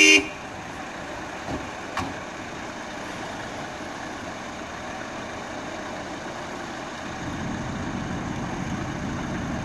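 Off-road 4x4 engines idling with a steady rush of flowing river water; from about seven seconds in the engine sound grows as one 4x4 drives forward through the water. A short loud blast right at the start.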